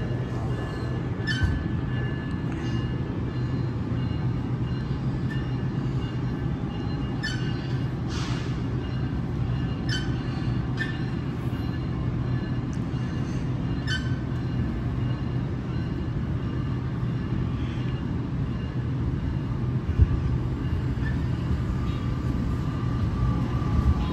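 NJ Transit Multilevel commuter train standing at the platform: a steady low hum from its equipment with faint high tones, and scattered clicks and knocks. A thin whine comes in near the end.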